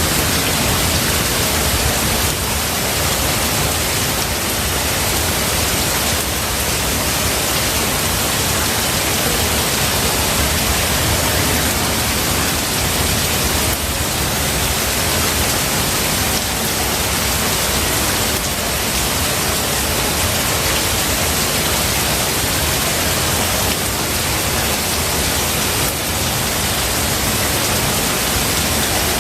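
Steady rain falling, an even, unbroken hiss with no thunderclaps.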